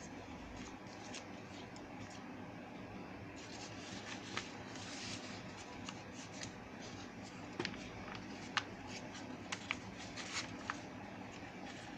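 Paper being handled and folded by hand: crisp rustles and scattered sharp crackles as the sheet is creased, over a steady low hum.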